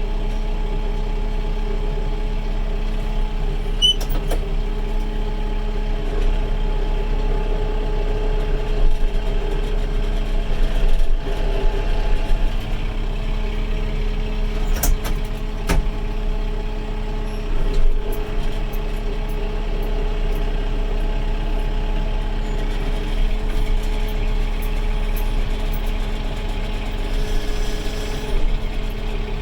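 Kubota 70-horsepower tractor's diesel engine running steadily at a constant pitch while the tractor pushes against cedar trees, with a few short knocks and cracks over it.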